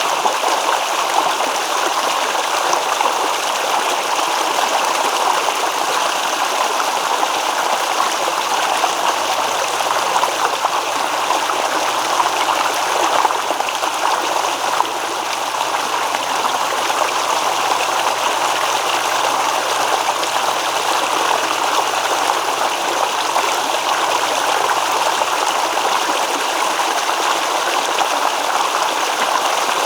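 A stream babbling and rippling in a steady, unbroken rush of water.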